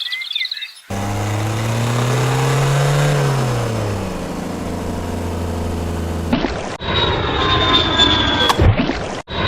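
Engine sounds in short spliced clips. First an engine note rises in pitch and falls back, then it holds steady, and after a cut about six seconds in, a high whine runs over the engine.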